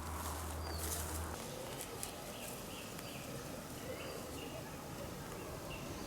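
Forest songbirds calling: a run of short chirping notes repeated roughly twice a second.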